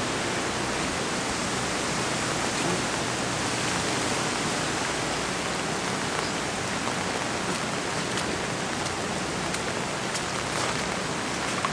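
Steady rain from Hurricane Ike falling and pattering on surfaces, a constant even hiss, with a few faint drip ticks near the end.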